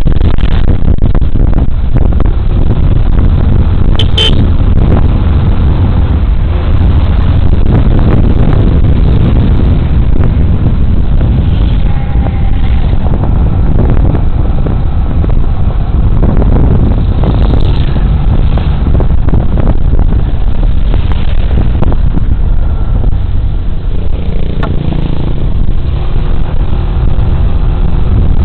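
Steady rush of wind and road noise from a moving Suzuki Burgman Street 125 scooter, heard through a body-worn camera's microphone. A brief horn toot about four seconds in.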